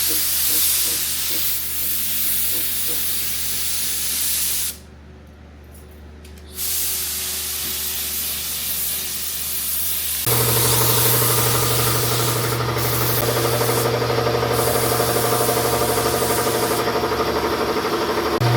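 Paint spray gun hissing as it lays a coat of paint, in two long bursts with a pause of about two seconds between them. About ten seconds in, a louder steady machine hum starts abruptly and runs on under the hissing.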